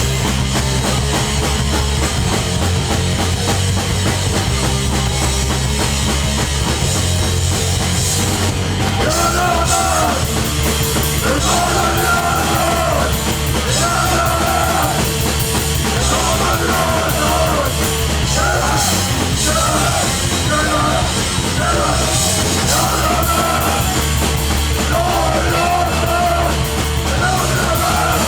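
Hardcore punk band playing live at full volume: drums, bass and distorted guitar, with a higher repeating line coming in about nine seconds in.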